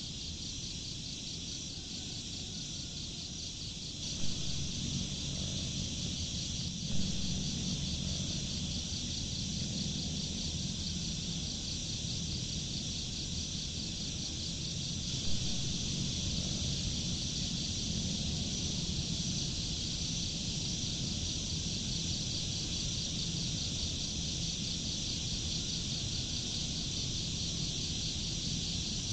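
Insects trilling in a steady, fast, even pulse, over a low rumble, with three brief knocks about four, seven and fifteen seconds in.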